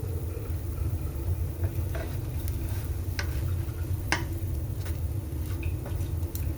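Egg-dipped bread frying in a pan, with a light sizzle and a few short utensil scrapes and taps, the plainest about three and four seconds in. A steady low rumble runs underneath.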